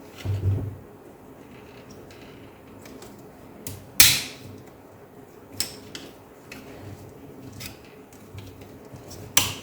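Sharp plastic clicks and a soft knock as the snap-lock clips of a laptop's plastic case are pried open with a screwdriver. The loudest click comes about four seconds in, with fainter clicks later.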